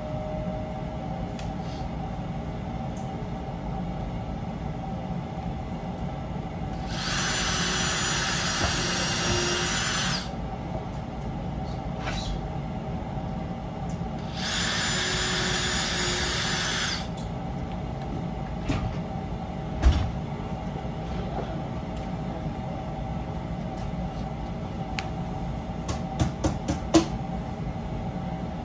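Power drill running in two bursts of about three seconds each, a few seconds apart, followed later by a knock and a quick series of clicks.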